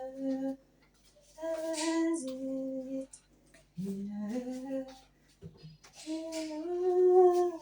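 A woman humming a tune, in four short phrases of held notes with brief pauses between them.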